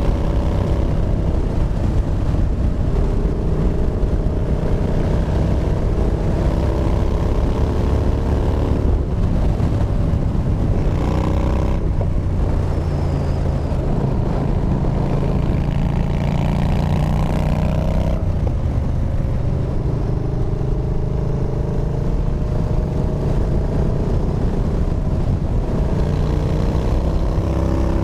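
Yamaha Bolt's air-cooled V-twin through a Bassani Radial Sweepers exhaust, running hard on the road. Its pitch climbs and drops again and again as the rider works the throttle and gears through corners, with shifts or throttle breaks about 9, 12 and 18 seconds in.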